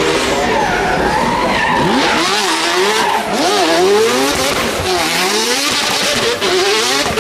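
Racing car engine revving hard, its pitch climbing and dropping several times as the revs rise and fall, with the tyres skidding.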